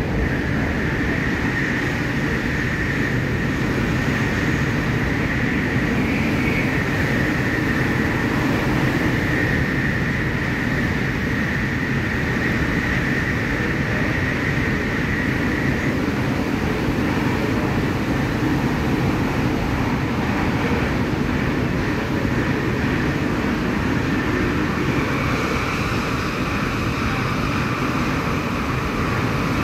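MTR K-Train electric multiple unit running at speed, heard from inside the car: a steady rumble of wheels and running gear, with a thin high whine through the first half and a slightly higher whine again near the end.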